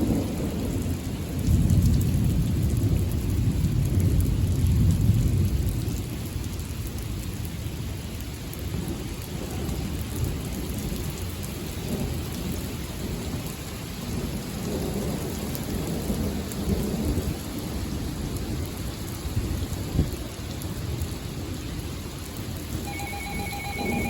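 Thunder rumbling in a heavy thunderstorm, loudest from about two to five seconds in, over steady rain. Near the end an electronic alert tone starts beeping.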